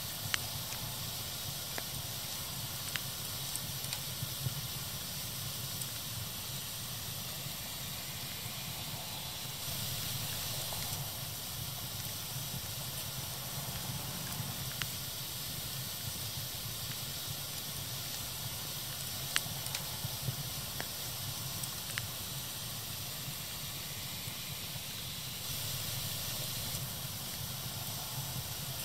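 Fire burning with a steady hiss and scattered sharp crackles: several in the first few seconds and a few more about two thirds of the way through. The hiss grows briefly louder twice, about ten seconds in and near the end.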